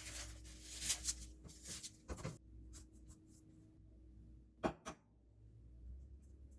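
Food-preparation handling sounds: scratchy rustling and scraping for about two seconds, then two quick sharp knocks.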